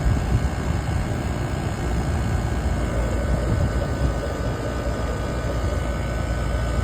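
Air-conditioning condenser unit running with a steady whooshing hum from its compressor and its condenser fan. The fan motor is wired backwards, so it is drawing air in instead of blowing it out and the coil is overheating.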